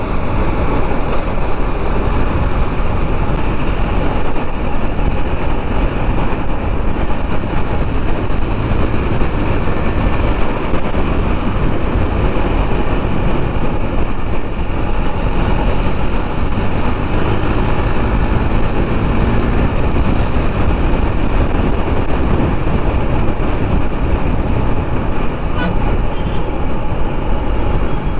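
Steady rush of wind over the camera microphone while riding a KTM 390 Duke on the highway, its single-cylinder engine running underneath along with passing traffic.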